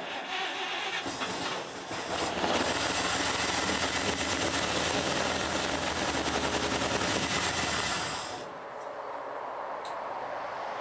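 Chevy pickup engine firing up through a freshly welded homemade exhaust and running roughly and loudly in rapid pulses, then falling to a quieter sound about eight seconds in. It is not yet running properly, which the owner puts down to fuel not getting through from the tank, so it runs mainly on petrol poured down the carb.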